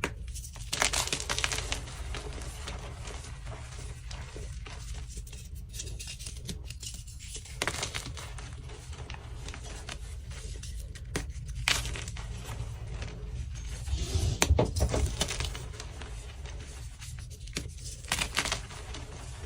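Dyed gym chalk blocks being crushed: crisp crunching and crumbling in a handful of separate bursts, the longest and loudest about two-thirds of the way through.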